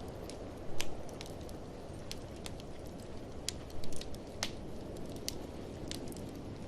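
Wood fire in a fireplace crackling, with irregular sharp pops (two louder ones about a second in and near the middle) over a steady low rush of blizzard wind.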